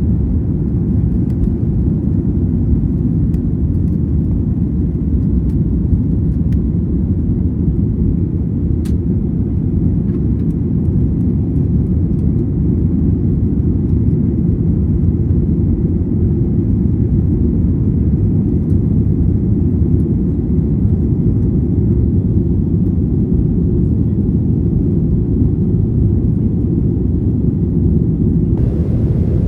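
Steady low rumble of a Boeing 737-800 jet airliner, the engines and airflow heard from inside the passenger cabin.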